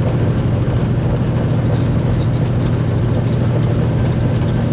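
Semi truck's diesel engine and road noise while cruising on the highway: a constant low drone.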